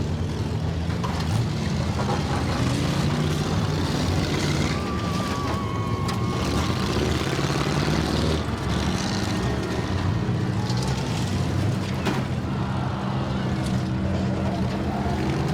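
Demolition derby car engines running and revving together, with a couple of sharp knocks, one about halfway through and one about twelve seconds in.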